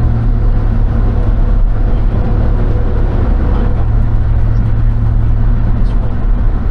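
Motor vehicle running: a steady low rumble with a constant low hum.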